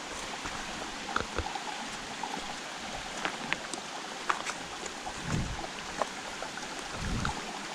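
Creek water running steadily over rocks, with scattered sharp clicks and knocks, and two dull thumps about five and seven seconds in.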